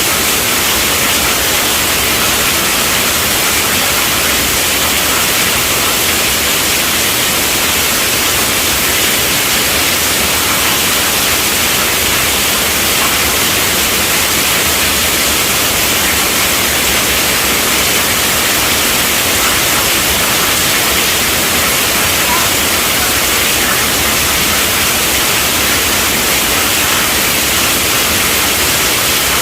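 Steady, heavy rainfall: a dense, even hiss of falling rain with no breaks.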